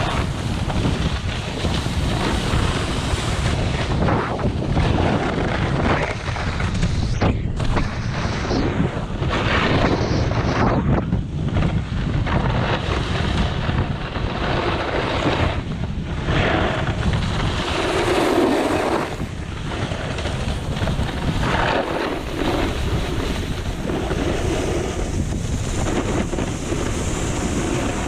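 Wind buffeting the microphone and a snowboard scraping over hard, icy snow while riding downhill, the rushing noise surging and easing as the rider turns.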